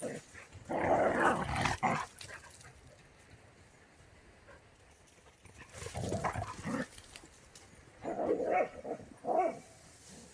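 Dogs growling and barking in play, in three bouts: about a second in, around six seconds, and again around eight to nine seconds.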